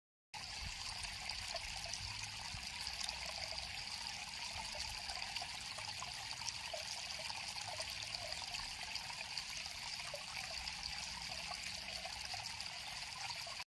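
River water flowing and trickling steadily, with small scattered bubbling pops; it cuts in abruptly just after the start.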